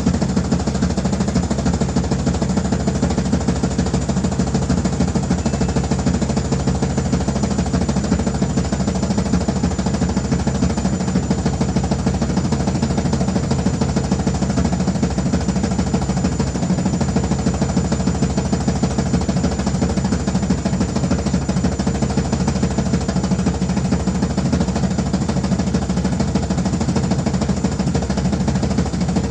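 Washing machine running loudly with a steady, unbroken rumble and fast rattling vibration.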